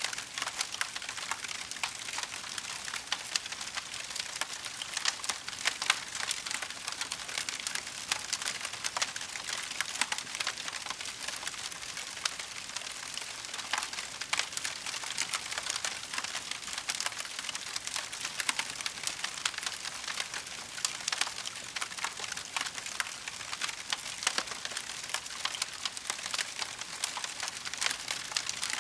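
Wood fire in a fireplace crackling steadily, a dense run of small snaps and pops over a soft hiss, with an occasional louder pop.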